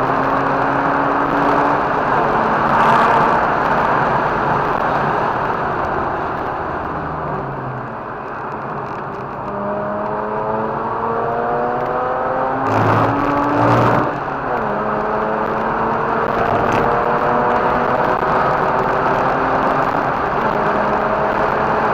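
Mazda RX-8's rotary engine pulling hard on a race track, its pitch climbing through the revs. It eases off around eight seconds in, rises again, shifts up about fourteen and a half seconds in and climbs once more. Steady tyre and wind noise runs underneath, with two short thuds just before the upshift.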